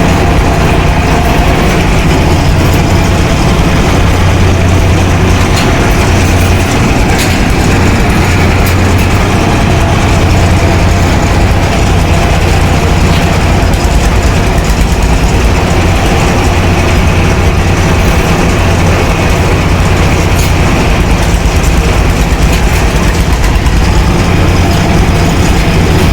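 Steady low mechanical hum that holds at one level throughout, with no marked events.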